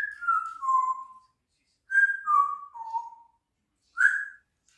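African grey parrot whistling: a three-note phrase stepping down in pitch, given twice, then one short single note near the end.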